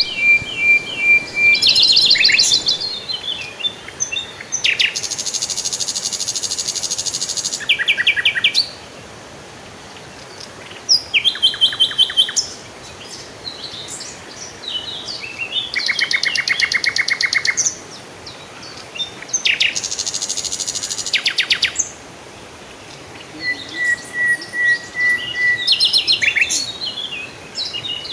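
Songbirds singing and calling: quick trills, runs of rapid repeated notes and harsher buzzy phrases, in bouts separated by short pauses.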